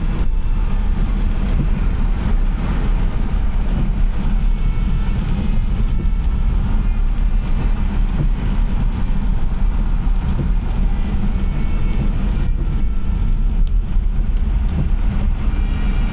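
Steady low rumble of a car driving, road and engine noise with no sharp events.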